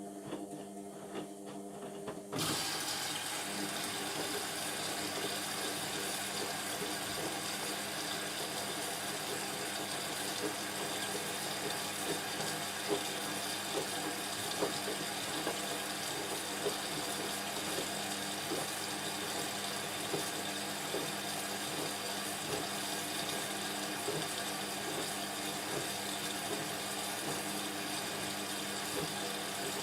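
Indesit washing machine taking in water: a steady hum, then about two seconds in water starts rushing into the drum with a loud, steady hiss and small irregular ticks.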